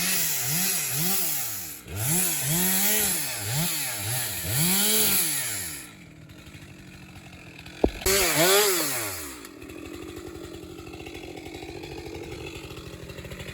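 Gas chainsaw cutting up a downed tree, its engine revving up and down over and over for about six seconds. It then drops to idle, gives a sharp knock, revs up once more and settles back to a steady idle.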